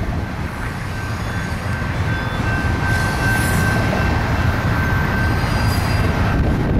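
Double-stack container freight train rolling past: a steady low rumble of wheels on rail, with a thin high squeal that swells about three seconds in and fades near the end.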